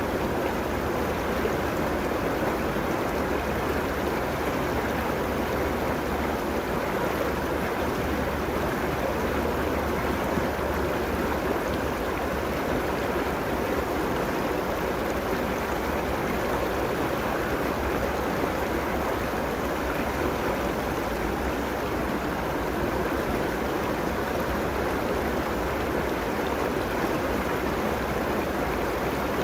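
River water flowing steadily over its bed along the bank, a constant rushing of running water.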